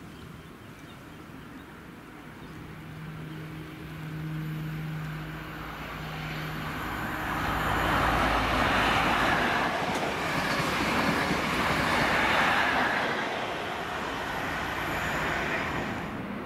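A train passing: a steady low hum first, then the rush of wheels on rail building to a peak about halfway through and dying away.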